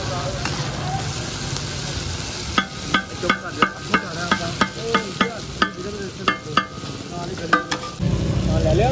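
Whole chicken sizzling in oil on a large flat iron tawa griddle, while a metal spatula strikes and scrapes the griddle in rapid ringing clanks, three or four a second, from about two and a half seconds in. Near the end a louder, lower rushing noise comes in over the sizzle.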